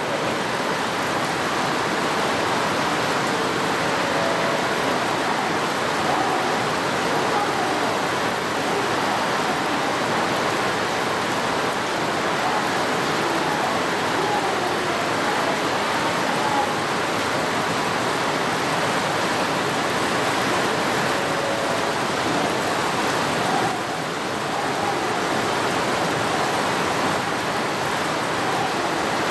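Heavy typhoon rain pouring down steadily, a dense, even hiss.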